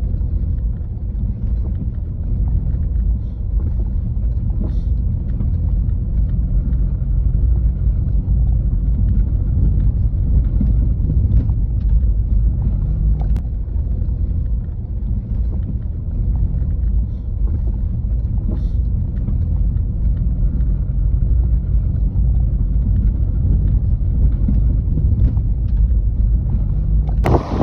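Loud, steady low rumble, with a few faint clicks over it.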